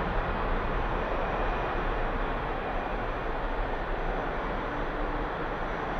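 Jet airliner engines at takeoff power: a steady, even noise that slowly fades as the aircraft climbs away.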